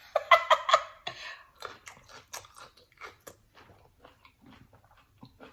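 Close-miked chewing and wet mouth smacks while eating a seafood boil, many small irregular clicks that grow fainter toward the end, with a brief vocal sound in the first second.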